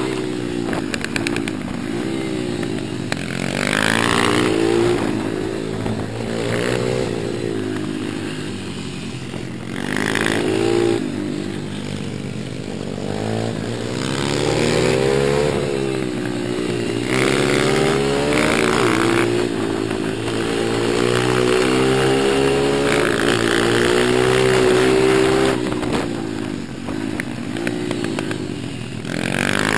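Small single-cylinder four-stroke pit bike engine being ridden hard, revving up and easing off again and again, its pitch rising and falling every few seconds.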